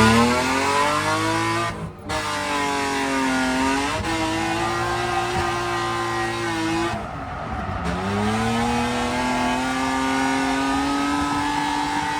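BMW E36 drift car's engine revving hard on track, its pitch climbing, dropping sharply about two seconds in and again near the middle, then climbing again.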